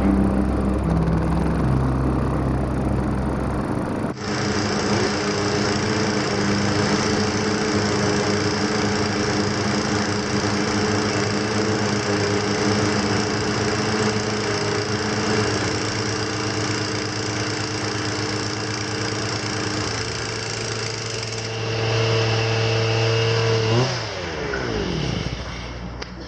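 Many small gasoline engines running at once in a steady, dense drone, several pitches held together. Near the end one or more of them winds down, falling in pitch as it shuts off. It opens with a few seconds of music before a sudden cut to the engines.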